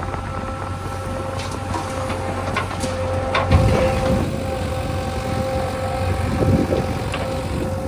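Heavy diesel vehicle running on the move, with a steady whine over a low rumble and a few knocks and rattles. A louder jolt comes about three and a half seconds in.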